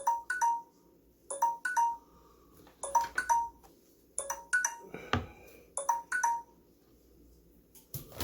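Timer alarm going off: pairs of short electronic beeps, a pair about every second and a half, five pairs in all before it stops. It marks the end of the ten-minute eating challenge's time limit.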